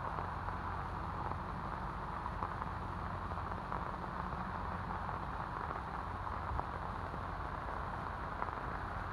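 Steady wash of rain falling on a wet road and hillside, with no distinct events.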